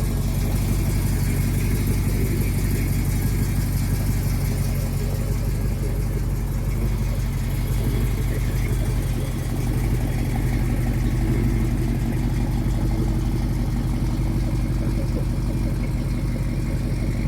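Rebuilt Chevy 396 big-block V8 idling steadily.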